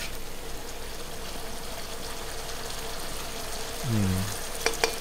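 Ground spice masala frying gently in oil in a kadhai: a steady soft sizzle, as the paste begins to release its oil. Under it runs a faint steady tone, and there is a short murmur of voice about four seconds in and two sharp clicks near the end.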